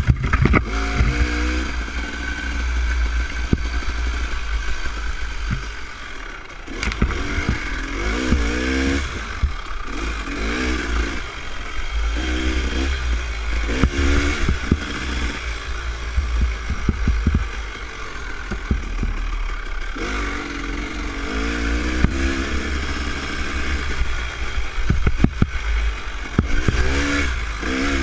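Dirt bike engine revving up and falling back again and again while riding a trail, over a heavy rumble of wind on the microphone, with frequent clattering knocks from the bike.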